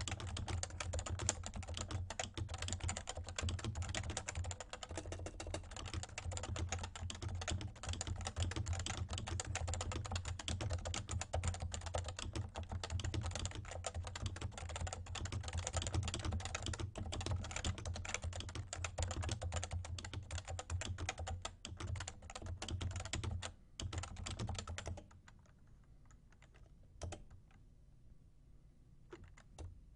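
Fast, continuous typing on a Realforce R2 TKL 30g keyboard with Topre electrostatic capacitive switches. The keystrokes stop about 25 seconds in, and only a few single keystrokes follow near the end.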